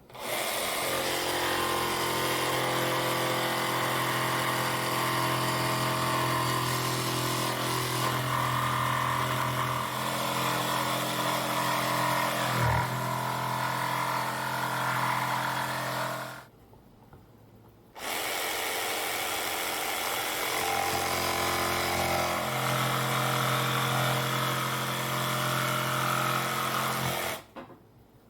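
Jigsaw cutting through glued-up scrap fence boards, running steadily for about sixteen seconds, stopping briefly, then starting again for about nine more seconds.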